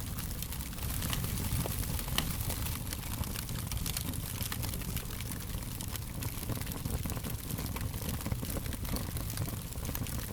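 Fire crackling: a steady run of small, irregular pops and snaps over a low, continuous rumble.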